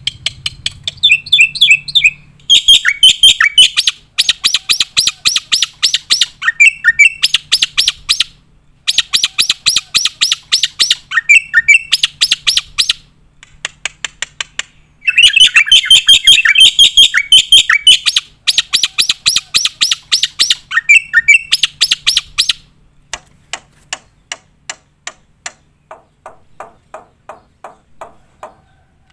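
Black-winged myna (jalak putih) singing vigorously in long runs of loud, rapid, sharp chattering notes mixed with whistled phrases, broken by short pauses. Near the end the notes turn quieter and sparser.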